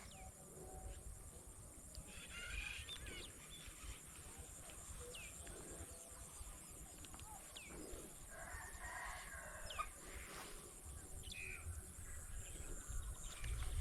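Faint bird calls: two longer calls, one about two seconds in and one near the middle, and several short falling chirps, over a steady low rumble.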